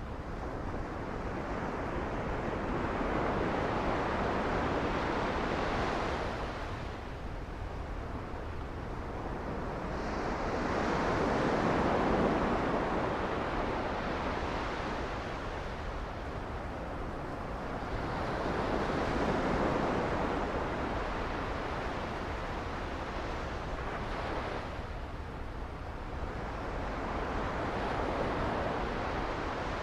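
Sea waves breaking and washing up a beach, the surf swelling and fading about every seven to eight seconds over a steady low rumble.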